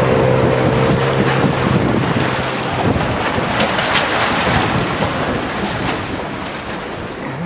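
Wind buffeting the microphone: a loud rushing noise that rises and falls. A steady low hum runs under it for the first few seconds and stops a little under three seconds in.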